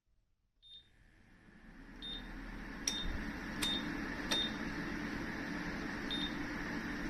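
Electronic appliance beeping at a series of button presses, six short high beeps, some with a sharp click. A steady fan noise starts up with the first beep and swells to a constant level within a couple of seconds.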